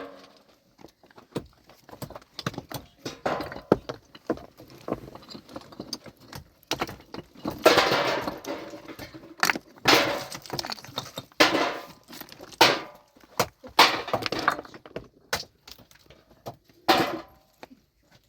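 Rocks and stones clattering and knocking against each other: a run of irregular hard strikes and short scraping rattles, the longest about eight seconds in, as stone is broken and cleared.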